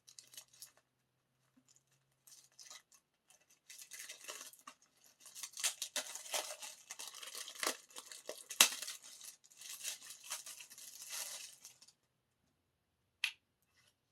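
Plastic wrapping on a music album being torn open and crinkled, in irregular crackling bursts that grow busier in the middle, with one sharp snap a little past halfway and a single click near the end.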